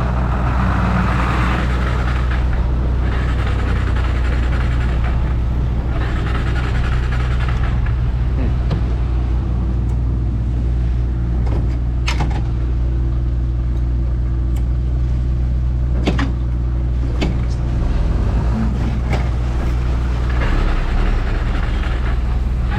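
Motorbike engine running steadily under way, with a few sharp clicks about halfway through.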